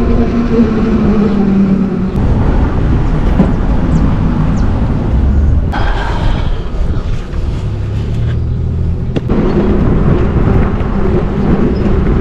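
Riding on a Zero electric motorcycle: heavy wind and road rumble on the microphone with a steady electric motor hum, which drops away for a few seconds in the middle and comes back near the end.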